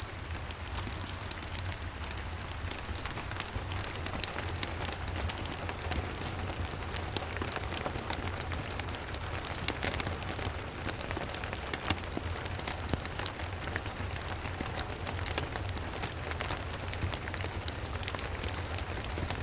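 Steady rain, an even hiss dense with sharp ticks of drops, over a constant low rumble.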